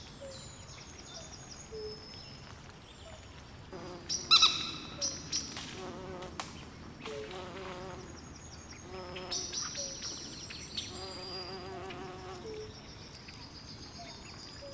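Night swamp ambience: insects trilling and buzzing high, with frogs calling in short repeated low notes and pulsed warbling choruses. A louder, sharp call stands out about four seconds in.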